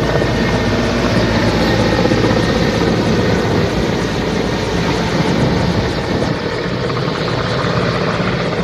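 Helicopter running loud and steady as it takes off, its rotor making a continuous low throb under a wide rushing noise; the sound eases a little about six seconds in.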